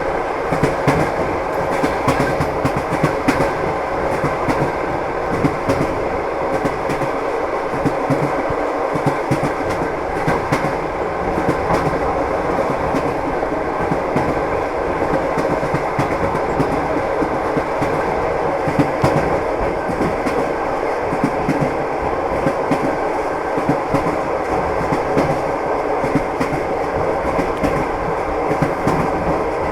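A moving train's wheels clattering over the rail joints, with frequent short clicks over a steady rumble.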